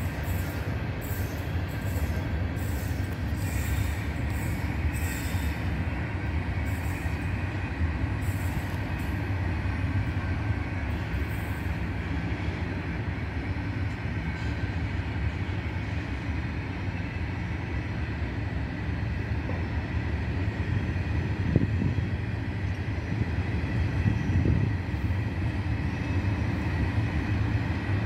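Freight train of covered wagons rolling past with a steady rumble of wheels on rail and a faint, continuous high wheel squeal. Regular clicks sound through the first dozen seconds as the wheels cross rail joints.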